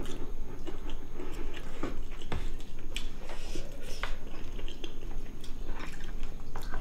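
Close-miked wet chewing and mouth sounds of people eating spicy braised pork ribs with rice, with scattered short clicks of chopsticks against bowls.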